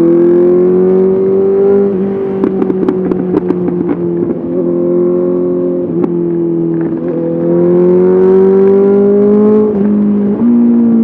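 Honda CBR 650R's inline-four engine through an SC-Project SC1R exhaust, rising in pitch as the bike accelerates. A quick run of crackles comes about two to three and a half seconds in, then the engine holds steady, climbs again and drops off near the end.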